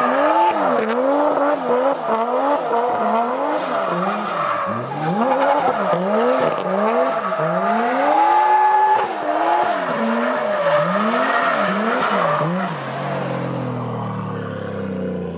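Turbocharged Toyota 1JZ straight-six in a Nissan 240SX during a burnout: the revs rise and fall over and over, with tyre squeal and hiss behind them. Near the end the revs drop and settle to a steady, lower engine note.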